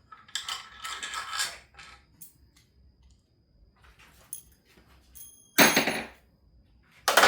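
Hand tools and metal engine parts clanking during work on an AC compressor mount: a scraping rattle at first, then a short metallic ring and two loud clanks near the end.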